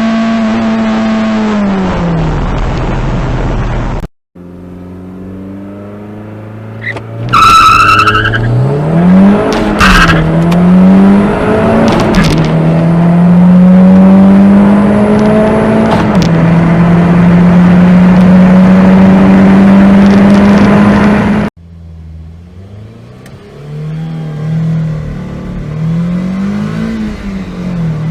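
Toyota MR2 engine under full-throttle acceleration, recorded in separate clips. The revs climb and drop back at each gear change. A brief high rising squeal comes just after the launch in the middle clip.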